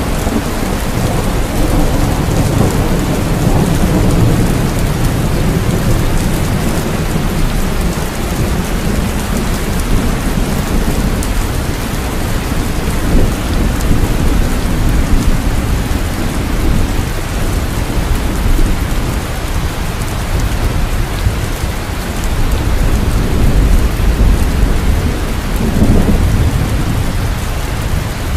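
Heavy rain falling steadily with deep rolling thunder rumbling underneath, swelling and easing in waves.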